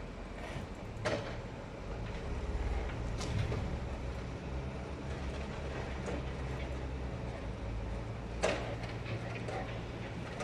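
A heavy vehicle's engine running steadily, with a few sharp knocks: about a second in, about three seconds in, and a louder one near the end.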